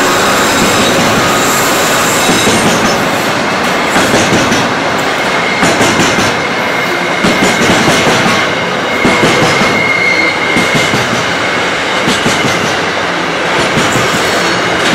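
Container wagons of a freight train rolling past close by: a steady rumble of steel wheels on rail, broken every second or two by a cluster of clicks as wheel sets cross rail joints. A thin high wheel squeal rises around the middle.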